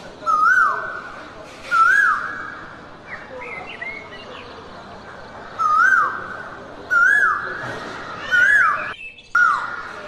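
A bird calling six times, each call a short swoop that rises and then falls, over a steady hiss of jungle ambience. Softer, higher chirps come in the quieter gap in the middle.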